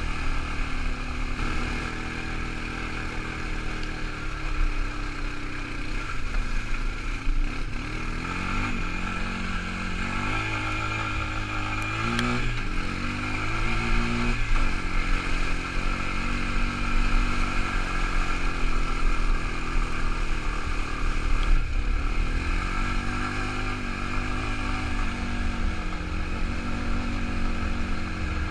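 Quad bike engine running, its pitch rising and falling again and again as the throttle is opened and eased.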